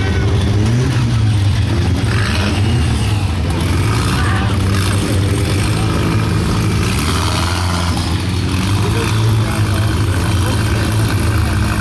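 Geo Tracker drag car's engine running steadily, with a few nearby voices.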